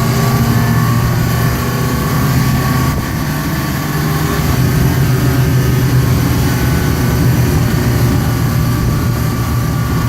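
Open passenger tram running steadily, heard from aboard, with a continuous low engine hum and road noise.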